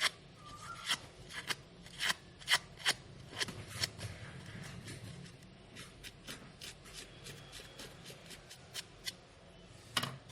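Crepe paper petal fringe being ruffled and stretched by hand: a run of sharp, irregular paper crackles, thicker in the first few seconds and sparser after.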